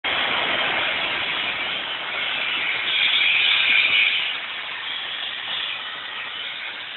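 Steam locomotive pulling into a station, giving a steady hiss of escaping steam that is loudest about three to four seconds in, then eases off.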